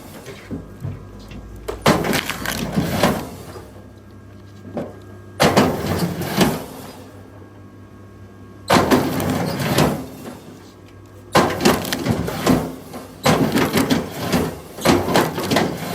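Wood cracking and splintering as firewood is split, in repeated bursts of a second or two with short pauses between, over a faint steady low hum.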